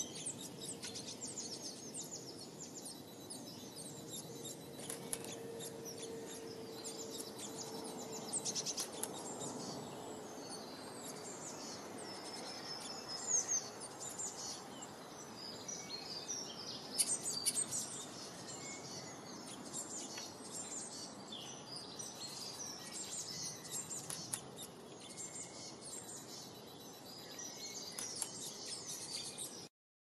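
Small songbirds chirping and calling: many short, high chirps throughout, over a steady background hiss. A faint low steady hum sits under them for a few seconds early in the first third.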